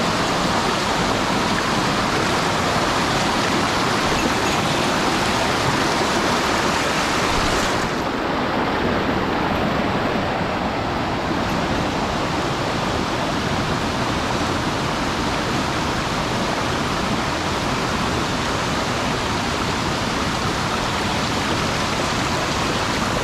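Mountain stream water rushing steadily over rocks, a constant loud hiss; about eight seconds in, the highest part of the hiss briefly softens.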